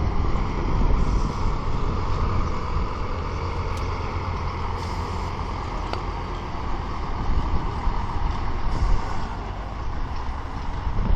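Scania coach bus's diesel engine running steadily with a low rumble as the bus drives off.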